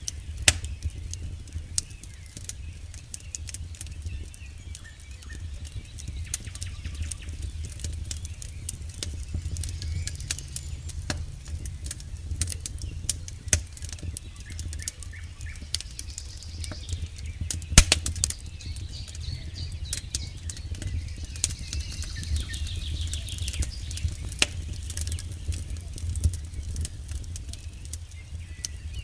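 Campfire burning: frequent sharp crackles and pops of burning wood over a steady low rumble of the flames. The loudest pop comes about 18 seconds in.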